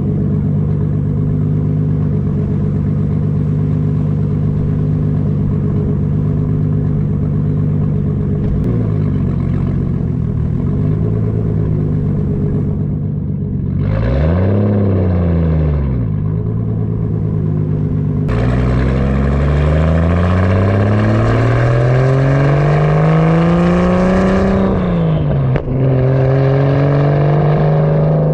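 Turbocharged MK4 Toyota Supra engine through a 4-inch exhaust, running steadily at first with a small blip and then a sharp rev that rises and falls. It then accelerates, the note climbing for several seconds, drops briefly at a gear change, and carries on at a steady, higher cruise.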